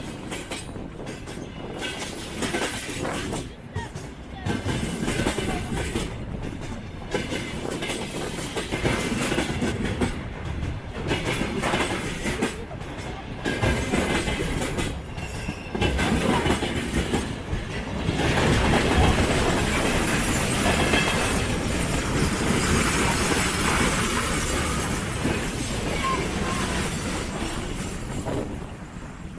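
Freight train rolling past, its wagon wheels clattering over the rail joints with an irregular rattle. It grows denser and steadier about two-thirds of the way through, with some faint wheel squeal, and fades near the end.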